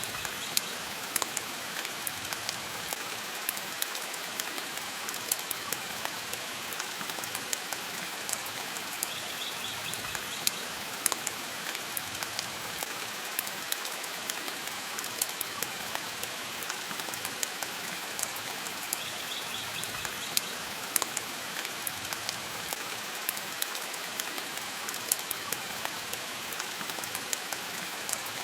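Steady hiss of rain with frequent sharp, irregular pops and crackles from a wood fire burning in a fireplace.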